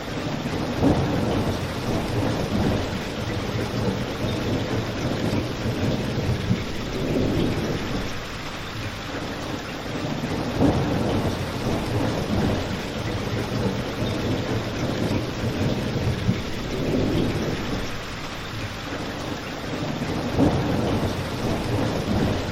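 Steady rain mixed with a crackling fireplace. A low rumble swells and fades every few seconds, and a few sharper pops stand out about a second in, about halfway through and near the end.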